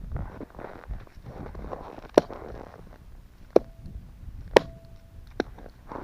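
Footsteps crunching in frozen snow, with four sharp cracks spread through the middle and end; the two loudest leave a brief faint ring.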